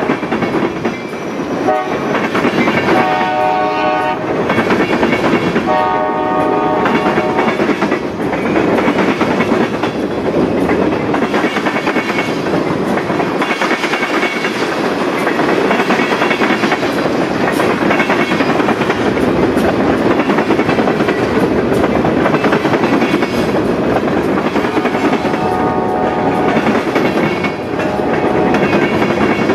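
Long mixed freight train of boxcars, covered hoppers and tank cars rolling past at close range, its wheels clattering and rumbling steadily on the rails. A distant locomotive horn sounds in short blasts a couple of seconds in, again about six seconds in, and near the end.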